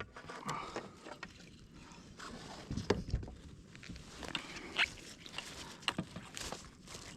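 Water sloshing against a fishing kayak, with scattered light knocks and clicks on the hull and gear.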